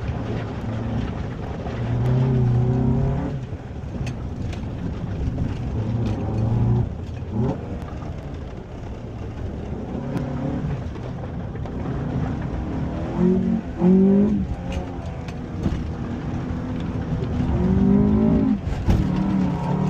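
2005 Honda Element's 2.4-litre four-cylinder engine revving up and easing off again and again, its pitch climbing with each burst of throttle, loudest about two-thirds of the way through and near the end. Scattered sharp ticks sound over it.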